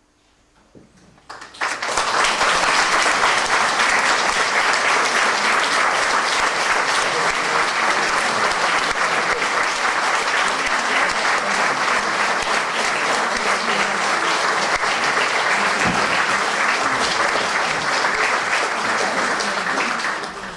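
Concert audience applauding after a choral piece, breaking out about a second and a half in and holding steady until it tails off near the end.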